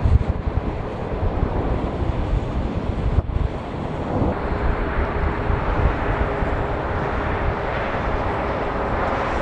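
Jet airliner engines at takeoff power: a steady roar, with faint engine tones coming in about four seconds in. Wind buffets the microphone in the first few seconds.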